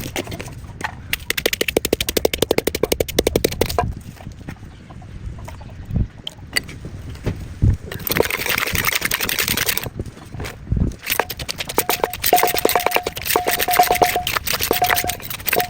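Rapid, rattling clacks of a pestle working in a mortar, pounding fresh shrimp, in two bursts with a few single thumps between them. A short steady tone beeps on and off during the second burst.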